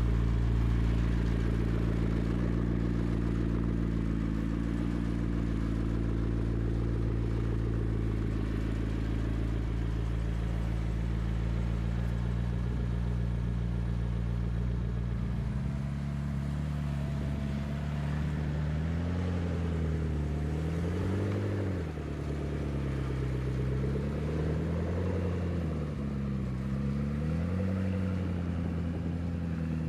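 McLaren MP4-12C's twin-turbo V8 running steadily at idle. From about halfway through, the engine speed rises and falls gently several times in light revs.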